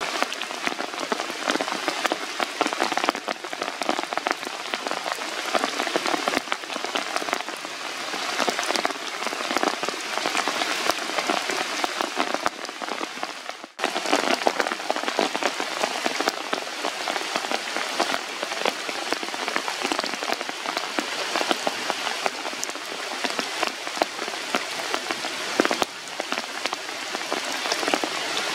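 Steady rain falling on forest leaves, a dense crackle of countless drop hits. It cuts out for an instant about halfway through, then carries on as before.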